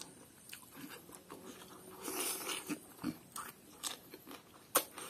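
Close-up chewing and biting of pork eaten by hand: wet mouth sounds and small crunches, with a louder wet burst about two seconds in and a sharp click near the end.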